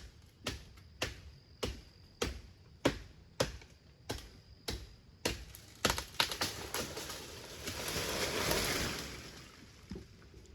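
A tool striking wood in a steady rhythm, one sharp blow about every 0.6 seconds for some seven seconds, then a rustling swell that rises and fades over about two seconds.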